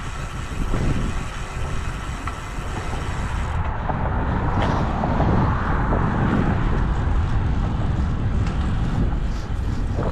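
Strong headwind buffeting the microphone of a moving road bicycle: loud, uneven rumbling wind noise that swells and dips.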